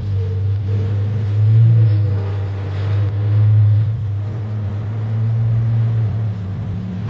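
Porsche Panamera engine running steadily with a deep, even hum, swelling slightly now and then.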